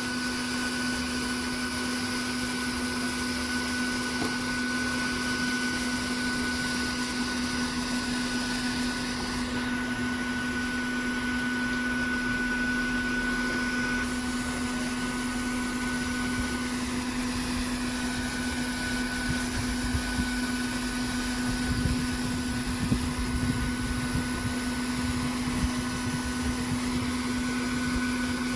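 Vacuum cleaner running steadily with a constant hum, being used to suck honey bees out of a hive. A few low bumps come in the second half.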